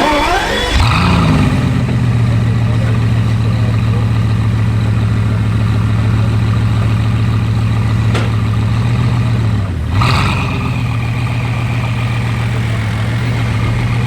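Bugatti 8.0-litre quad-turbo W16 engine giving a short rev flare about a second in, then idling steadily, with a brief dip and small blip about ten seconds in.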